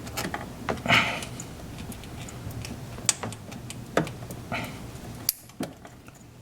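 Hand tools and small metal parts clicking and knocking now and then as a fastener is undone, with the loudest knock about a second in.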